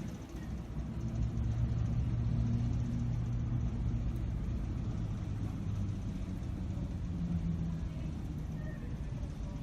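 Low, steady engine rumble with a humming note that grows louder about a second in and eases off after about six seconds.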